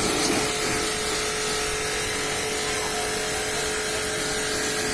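High-pressure washer spraying: a steady hiss of spray over the even hum of the washer's motor and pump.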